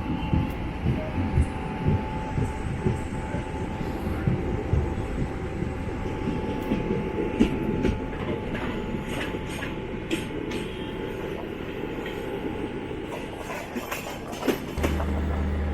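Garib Rath Express passenger train running on the rails, wheels clattering and knocking with a steady rumble. About a second before the end it gives way abruptly to a steady low hum.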